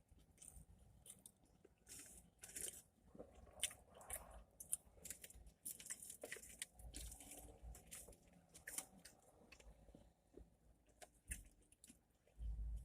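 A person chewing and biting food, with faint, irregular crunchy and wet mouth sounds.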